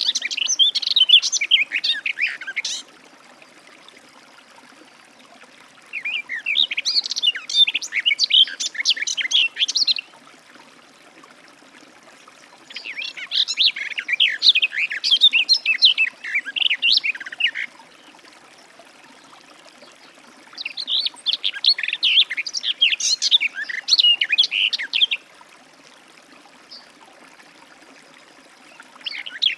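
Garden warbler singing: long phrases of rapid, rich warbling, each a few seconds long, repeated four times with short pauses between, and a fifth phrase starting at the end.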